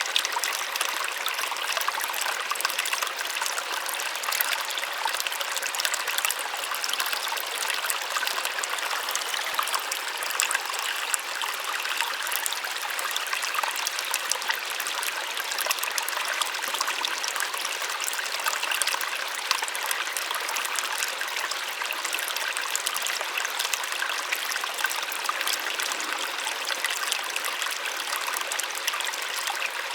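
Small waterfall splashing and trickling steadily, a light, hissy rush of water without deep rumble.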